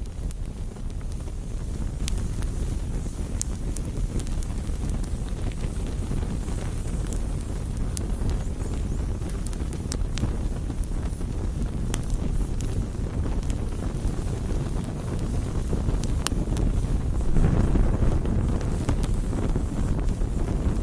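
Wood campfire burning: a steady low rumble of flames with scattered sharp crackles and pops from the burning wood, swelling louder for a couple of seconds near the end.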